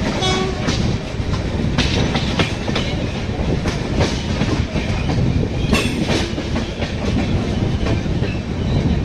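Passenger coaches of the 12850 Pune–Bilaspur Express running at speed, heard from on board: a steady rumble of wheels on rail broken by irregular clacks and clanks as the wheels cross rail joints and points.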